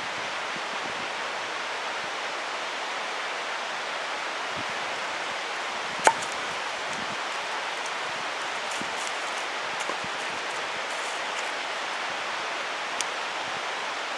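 Steady rush of a mountain stream's flowing water, with one sharp click about six seconds in.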